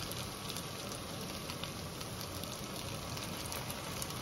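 Onion and green pepper pieces frying in oil in a stainless wok: a steady sizzling hiss with fine crackles.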